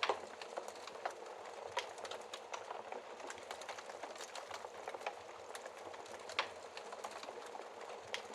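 Burning logs crackling in a fireplace: a steady hiss with frequent small irregular pops and snaps. A few louder pops come just after the start, about two seconds in, and about six seconds in.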